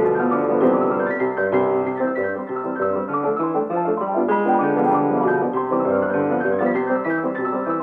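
Background piano music, a steady run of notes with no speech over it.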